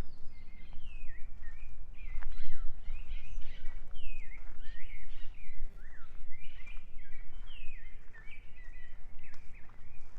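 Songbirds calling over and over, many short chirps that sweep down in pitch, over a low rumbling noise.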